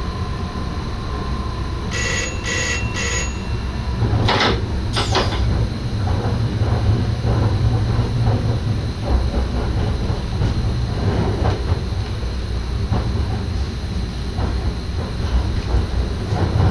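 Steady rumble of an NS SGM Sprinter electric train, heard inside the driver's cab. About two seconds in come three short beeps, then two sharp knocks a second later, after which the rumble grows louder with scattered clicks.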